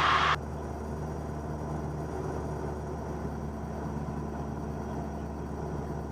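Steady drone of a Cessna 172N's four-cylinder Lycoming engine and propeller in cruise flight, heard from inside the cabin. A louder hiss cuts off sharply about half a second in.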